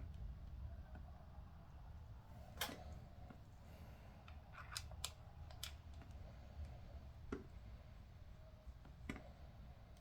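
Light, scattered metal clicks and taps, about six in all, from bolts and hand tools being handled while the oil pump bolts on an LS 5.3 engine are started by hand, over a low steady hum.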